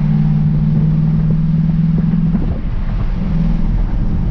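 Muscle car's V8 engine and exhaust drone heard from inside the cabin while cruising: a steady low hum. It fades briefly a little past halfway and comes back about a second later.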